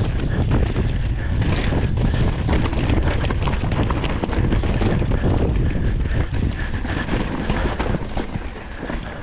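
Mountain bike rattling down a rough trail over roots and rocks: a dense run of quick knocks and clatter from tyres, chain and frame, over heavy wind rumble on the microphone. It eases slightly near the end.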